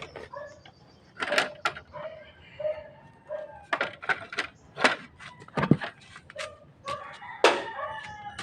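A dozen or so sharp clicks and knocks at irregular intervals, the loudest about five and a half seconds in, with short chicken clucks between them.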